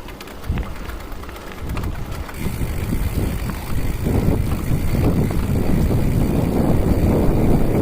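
Wind buffeting the microphone: a low, rumbling rush that grows louder after the first two seconds and then holds.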